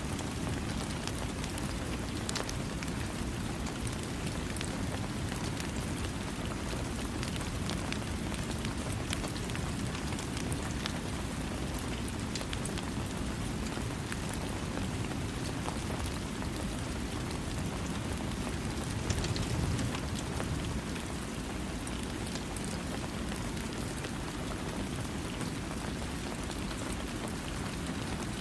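Steady rain falling, an even wash of noise strongest in the low end, with many sharp drop ticks. A brief louder low swell comes about two-thirds of the way through.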